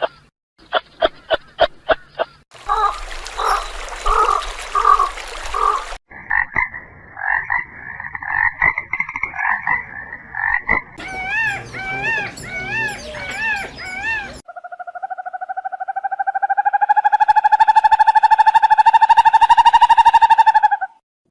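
A sequence of different frog calls that changes every few seconds: quick pulsed croaks, a buzzing trill, repeated wavering calls, and last a long rising trill lasting about six seconds that cuts off suddenly.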